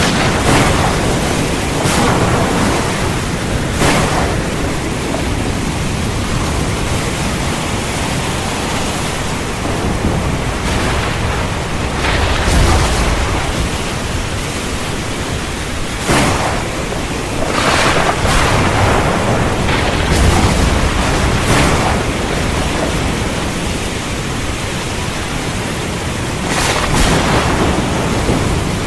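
Heavy rain falling in a steady, dense hiss, broken by several sharp cracks of thunder and a few deeper low rumbles.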